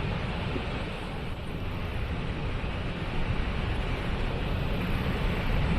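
Waterfall: falling water rushing steadily, a deep, even noise with no breaks.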